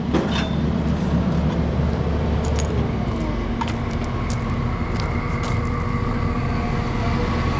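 A vehicle engine running steadily with an even hum, with a few faint light clicks over it.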